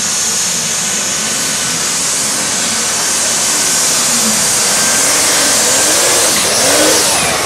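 Pulling tractor's engine running hard at full throttle during a pull, loud and steady, growing slightly louder toward the end.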